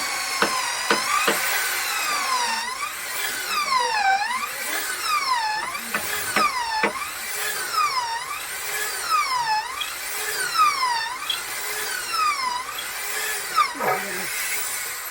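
Electric power tool working wood, its motor whine dipping and recovering about once a second as it bogs under load and spins back up.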